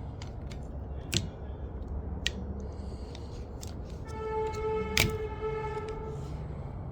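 Plastic clicks and snaps of a new windshield wiper blade being worked onto the wiper arm and locked in, a few sharp clicks with the loudest about five seconds in. A steady pitched tone sounds for about two seconds near the middle, over a low steady hum.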